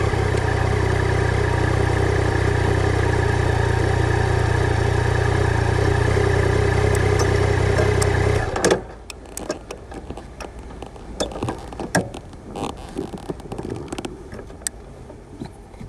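Yamaha Tracer 900 GT's three-cylinder engine idling steadily, then cutting off suddenly about eight seconds in. Only scattered light clicks follow.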